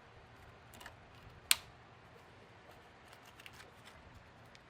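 A single sharp click about one and a half seconds in, with a few faint ticks later, against a quiet room: small handling noises of tools or parts.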